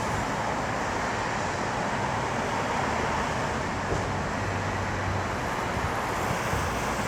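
West Midlands Railway Class 196 diesel multiple unit running past on the main line, a steady rumble with a faint low hum.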